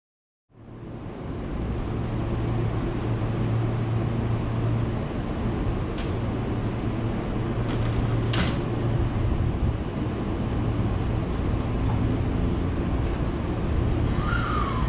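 Kintetsu 23000 series Ise-Shima Liner limited express standing at the platform, its onboard equipment and air conditioning giving a steady low hum. Two sharp clicks sound about 6 and 8 seconds in.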